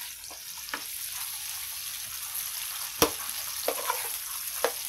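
Sliced tofu and straw mushrooms sizzling in hot oil in a frying pan. A spatula stirring them knocks and scrapes against the pan in a few sharp clicks, the loudest about three seconds in.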